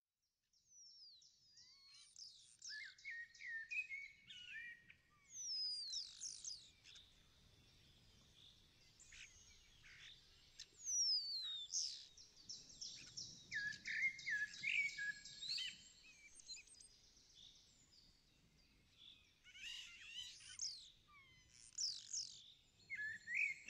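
Birds singing faintly: short phrases of quick high chirps, trills and falling whistles, one after another with short pauses between them.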